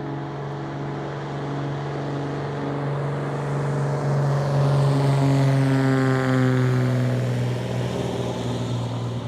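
A motor passing by, growing louder, then fading, with its pitch dropping as it goes past.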